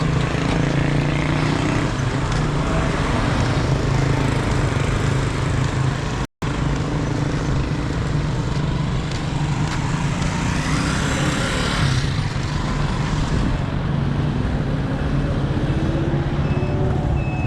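Road traffic: motor vehicle engines running and passing close by, with a steady hum over road noise. The sound drops out completely for a moment about six seconds in, and an engine note rises near the end as a vehicle speeds up.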